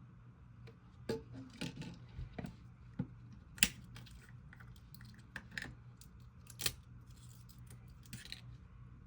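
Mallow slime being worked by hand: irregular crackles, clicks and a few sharp pops as it is squished and stretched.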